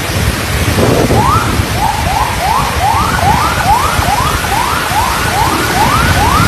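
Emergency vehicle siren in a fast yelp, each sweep rising quickly, about two to three sweeps a second, starting about a second in. Beneath it, a steady rush of wind and rain.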